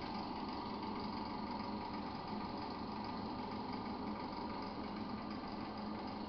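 Suzuki V-Strom 650's 90-degree V-twin engine idling steadily, a constant mechanical hum with a light, even clatter.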